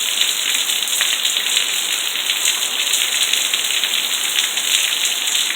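Heavy hurricane rain pouring steadily: a loud, even hiss with a fine crackling patter of drops.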